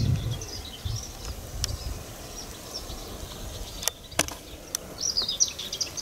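Small birds singing in quick, chirpy phrases, a burst near the start and another near the end, with a few sharp clicks in between.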